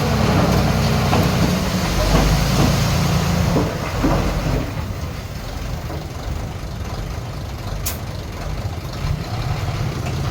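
Heavy diesel engine of earthmoving machinery running under load for the first few seconds, then easing to a lower, steadier run.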